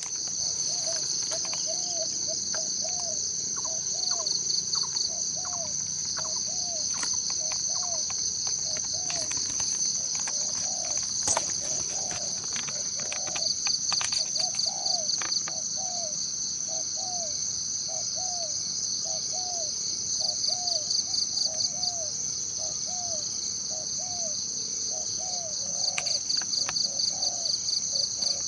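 A forest insect chorus keeps up a steady high-pitched buzz that swells into pulsing trills several times. Under it a bird repeats a short low note over and over, more than once a second.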